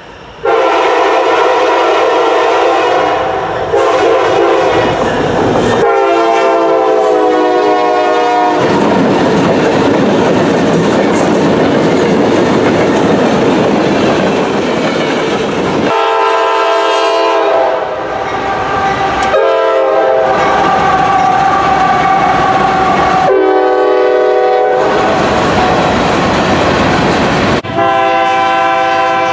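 Locomotive air horns sounding a series of long blasts, the chord changing abruptly several times, with the rumble and clatter of passing trains in between.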